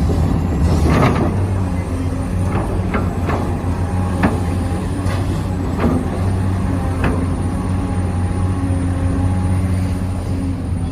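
Electric drive motors of a Huina 1593 remote-control construction model whirring steadily, with a few sharp plastic-and-metal clacks from its moving parts.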